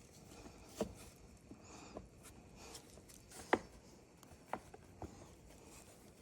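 Scattered light clicks and taps of tools and small chainsaw parts being handled during a repair, about five in all, the loudest about three and a half seconds in.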